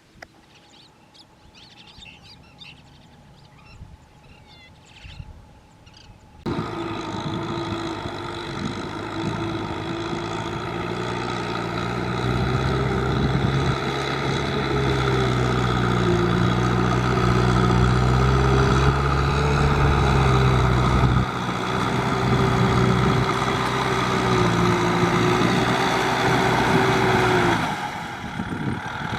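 A tractor engine runs steadily under load, starting abruptly after about six seconds of faint, quiet sound. Its low note grows heavier through the middle and eases off near the end.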